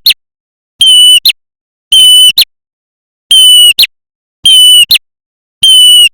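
Looped lure recording of a prenjak merah calling five times, about once a second. Each call is a steady high, whistled note about half a second long, followed by a quick rising chirp.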